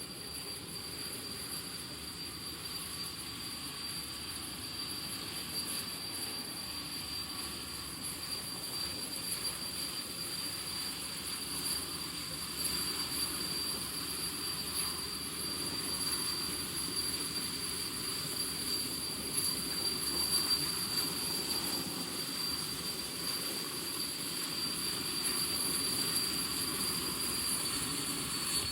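Turbomeca Marbore II jet engine of a jet dryer truck running, a steady high turbine whine over a broad rush of exhaust noise. Near the end the whine begins to drop in pitch.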